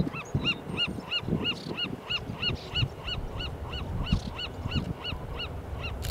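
A bird calling a fast, even series of short nasal notes, about five a second, over a low rumble from the passing train.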